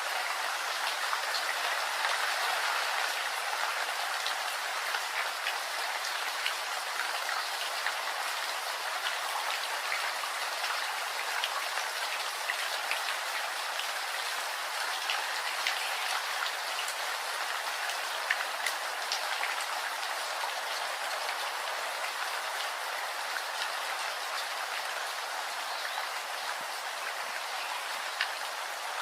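Steady rain falling, with many individual drops ticking sharply close by over an even hiss.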